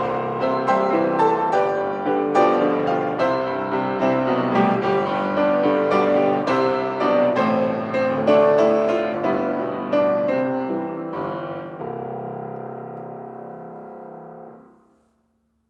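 Piano playing chords and a melody. It settles on a held final chord about twelve seconds in, which dies away shortly before the end.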